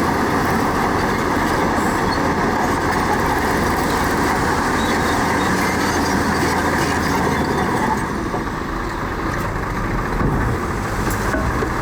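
Diesel engines of heavy earthmoving machinery, bulldozer or dump truck, running steadily under work; the sound eases a little about eight seconds in.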